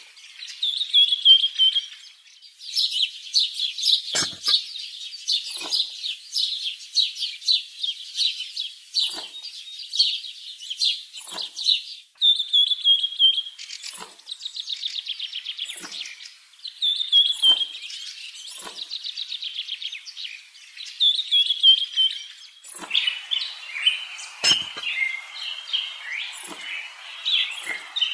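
Small birds chirping: fast high trills alternating with short calls that slide down in pitch, over and over, growing busier and more mixed near the end, with a few faint clicks.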